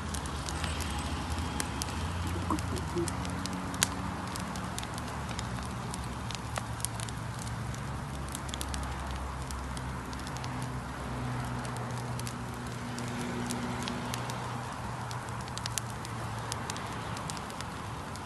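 Bonfire burning: a steady rush of flames with frequent sharp crackles and pops, over a faint low steady hum.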